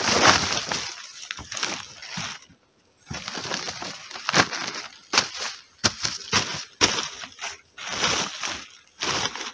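Shovel scraping into soil and earth being tipped onto a dugout roof, in a string of irregular gritty strokes, broken by a brief gap about two and a half seconds in.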